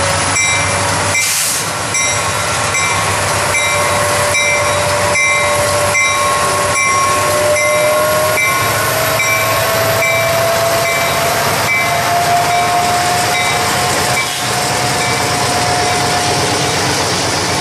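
Diesel freight train passing close by, led by an EMD SD70MAC locomotive with a second diesel and hopper cars behind: a loud, steady rumble of engines and wheels on rail, with clicks at a regular beat and a whine that slowly rises in pitch.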